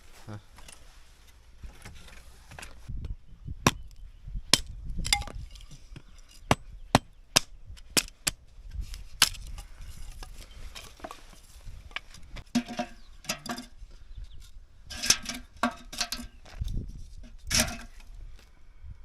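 Axe striking and splitting firewood: a run of sharp, irregular wooden knocks, some coming in quick pairs.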